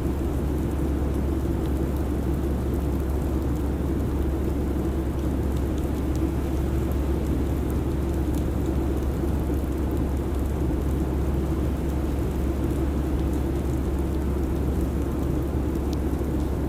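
Steady airliner cabin noise in cruise: a constant low engine rumble with a hiss of air over it.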